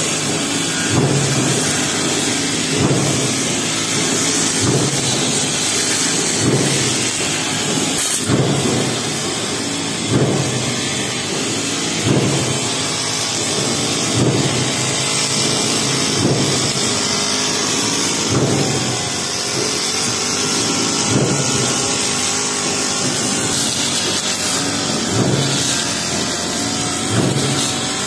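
Honda four-stroke brush cutter with a metal blade running at high speed, its engine note surging about every two seconds as the blade is swung through tall grass.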